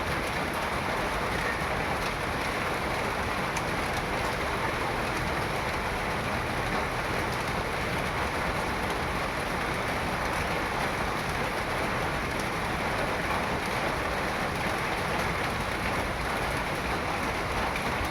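Steady rain falling, an even hiss of drops with no breaks or single loud events.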